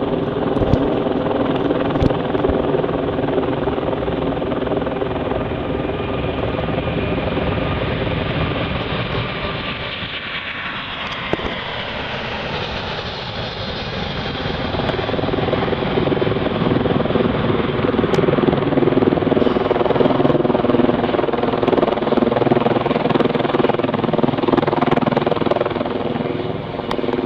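Four-engine Airbus A380 jet airliner taking off, its Rolls-Royce Trent 900 turbofans making a loud, steady noise with droning tones. About ten seconds in the sound dips briefly with a sliding change of pitch, then swells louder again.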